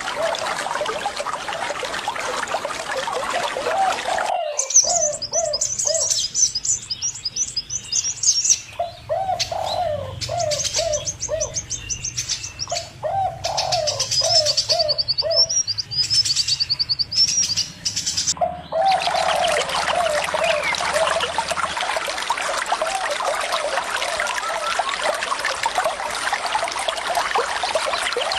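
Running water rushing steadily while birds call, with runs of short repeated notes and high trilling chirps. About four seconds in, the water sound cuts off abruptly, leaving the bird calls clear. Near the end of the second third it cuts back in just as abruptly.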